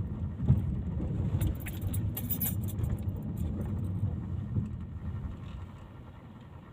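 Steady low rumble of a moving vehicle, fading near the end, with a brief bright metallic jingle from about one and a half to two and a half seconds in.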